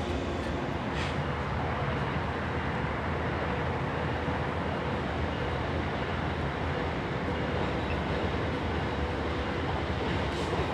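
Amtrak passenger train passing: a steady rumble and rolling noise of its cars on the rails.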